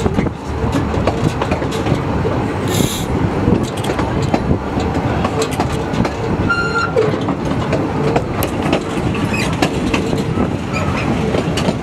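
Narrow-gauge railway carriage running along the track, heard from on board: a steady rumble with many short clicks and knocks from the wheels, a brief high hiss about three seconds in and a short squeal near the middle.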